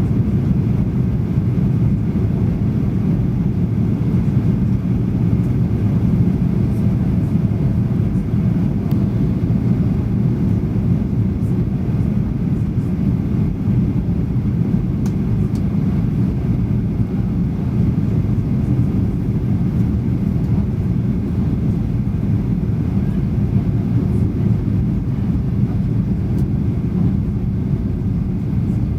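Boeing 737 in flight heard from inside the passenger cabin: a steady low rumble of engine and airflow noise that does not change.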